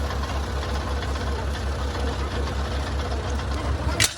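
A heavy engine idling with an even low throb, about five beats a second. A single sharp click or knock sounds near the end.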